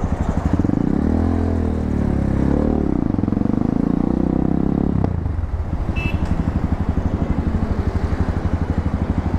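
250cc Tekken motorcycle engine through a new aftermarket muffler, the revs rising and falling a few times, then dropping about five seconds in to a steady, evenly pulsing low exhaust note.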